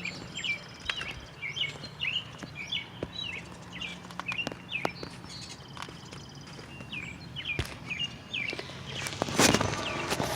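A small bird chirping over and over in short, hooked calls, about two a second, pausing for a couple of seconds midway before starting again. A low steady hum fades out around halfway, and a brief loud noise comes near the end.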